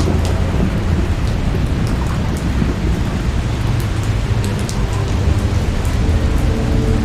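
Steady rain with scattered sharp ticks of individual drops, over a continuous low rumble of distant thunder.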